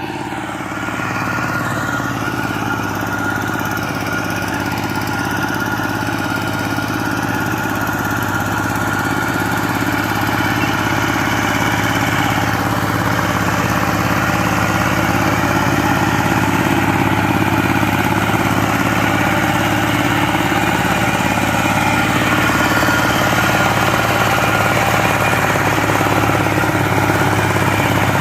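Power tiller engine running steadily.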